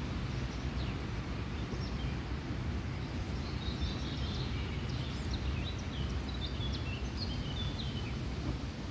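A small songbird chirping a quick run of short, high calls from about three seconds in until near the end, over a steady low outdoor rumble.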